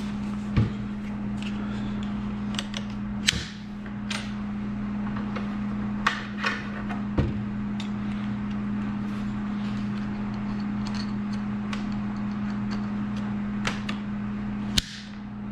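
Scattered sharp clicks and clinks of a jigsaw blade being taken out of and fitted into the Milwaukee M12 jigsaw's blade clamp by hand, about eight in all, the loudest near the end. A steady low hum runs underneath.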